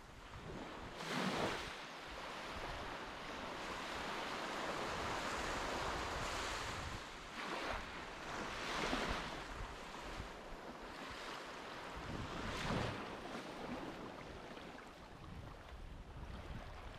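Sea waves washing, with several louder surges, and wind on the microphone.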